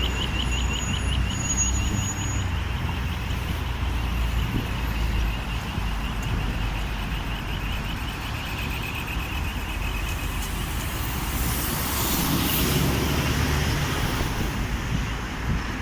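Accessible pedestrian traffic signal for the visually impaired ticking rapidly at a high pitch, about four ticks a second, the audible cue that the crossing is green; the ticking fades out about ten seconds in. Street traffic runs underneath, with a vehicle passing near the end.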